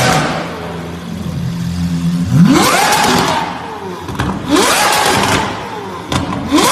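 A car engine with a loud exhaust idling, then revved hard three times: each rev's pitch climbs steeply, holds briefly and falls back, and the third comes near the end. There are a couple of sharp cracks as the revs drop.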